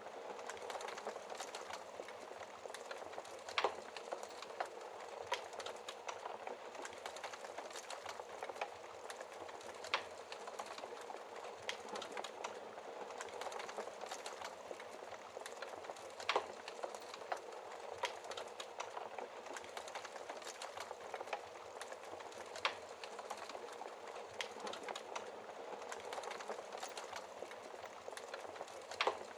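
Wood fire crackling in a fireplace: a steady hiss of burning full of small crackles, with a louder pop about every six seconds.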